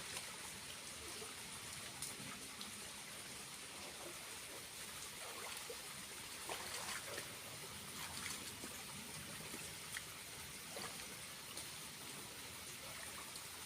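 Small waterfall's water trickling and splashing steadily, with scattered sharp drips.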